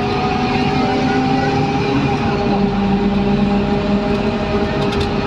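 Scania N230UD double-decker bus running, its five-cylinder diesel engine and drivetrain giving a steady hum and whine over road noise. A lower engine note comes in about halfway through.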